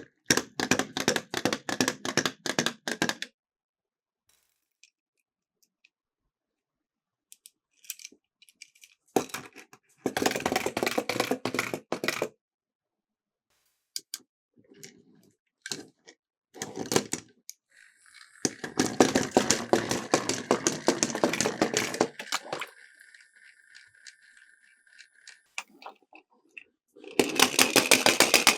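Miniature toy cars rattling and clattering down a plastic slope in four bursts of rapid clicks, with quiet gaps between runs. A faint steady high tone sounds for a few seconds after the third run.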